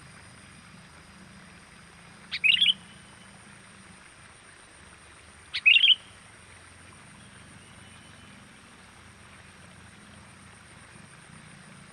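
Two short, sharp bird calls about three seconds apart, each a quick burst of notes: a sooty-headed bulbul (kutilang) lure call. A faint steady high-pitched tone runs underneath.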